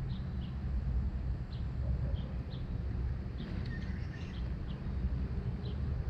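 Short high bird chirps, roughly two a second and busiest in the middle, over a steady low rumble.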